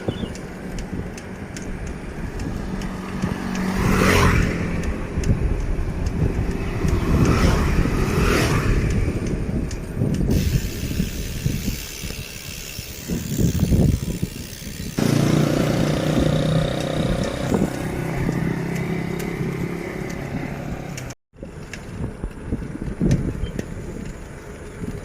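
Road traffic of motorbikes and cars going past, with a steady engine hum for several seconds about two thirds of the way through. The sound cuts out for an instant near the end.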